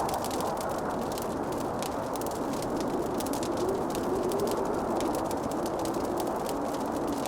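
Fireplace crackling: many small, irregular pops over a steady rushing noise, with a faint, wavering moan drifting slowly up and down in pitch.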